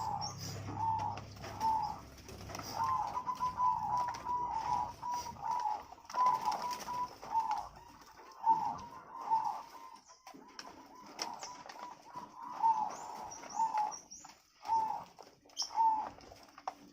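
Zebra doves (perkutut) cooing in a steady run of short, arched, repeated notes, with bursts of wing flapping and knocking among them.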